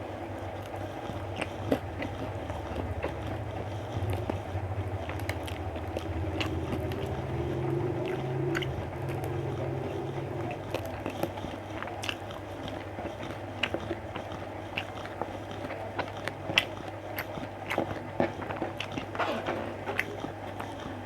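A person biting and chewing food up close, with many short sharp mouth clicks and smacks. A steady low hum sits underneath for roughly the first half.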